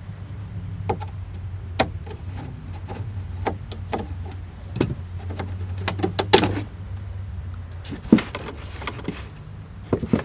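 Irregular clicks and knocks of plastic dashboard parts being worked loose and handled, over a steady low hum.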